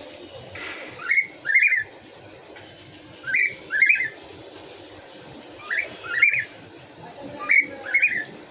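A caged pet bird calling: a repeated two-note call, two short rising notes in quick succession, coming four times about every two seconds.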